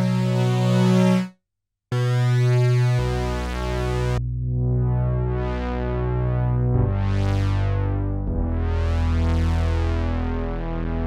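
Sequential Trigon 6 analog polyphonic synthesizer playing held chords. The sound cuts out for a moment about a second in. It comes back with the filter sweeping slowly open and shut, a rise and fall about every two seconds, while the chord changes a few times.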